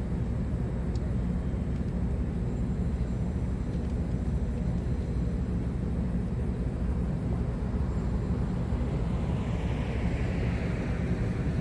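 Steady low rumble of street traffic, with a vehicle passing close by about nine to eleven seconds in, its tyre hiss swelling and fading.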